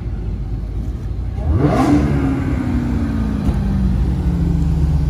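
Car engine running with a low rumble, then revved sharply about a second and a half in: the pitch climbs fast and then falls slowly as the revs wind back down.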